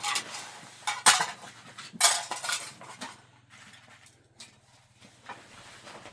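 Clattering and clinking of hard objects knocked together, in a few sharp bursts about a second apart, the loudest about a second and two seconds in, then fainter knocks.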